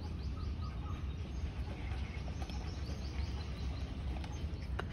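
Outdoor ambience: a steady low rumble with small birds chirping faintly, several quick falling chirps in a row, twice.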